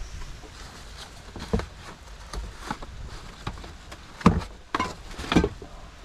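A series of knocks and clicks, the loudest three about half a second apart near the end, over a steady low background noise.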